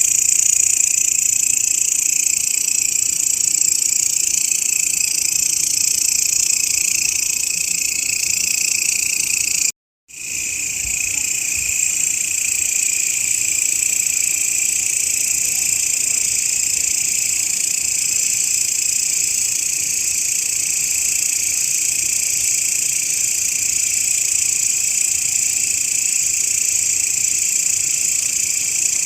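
Grasshoppers stridulating: a dense, steady, high-pitched buzzing trill that cuts out completely for a fraction of a second about ten seconds in, then resumes.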